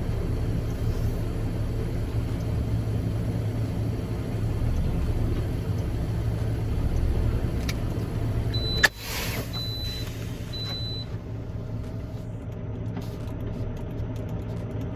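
A semi-truck's engine runs with a steady low rumble. About nine seconds in there is a sharp click and a short hiss of air, with a few brief high beeps just after.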